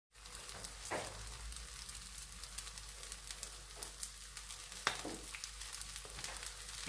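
Egg-and-vegetable patties frying in hot oil in a pan: a steady sizzle with scattered crackling pops, two louder ones about a second in and near five seconds.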